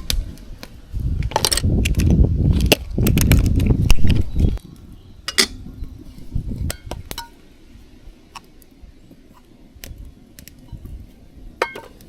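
Light metal and glass clinks and knocks of camp cookware being handled while coffee is made. A loud low rushing noise runs from about one to four and a half seconds in, and the clinks thin out near the end.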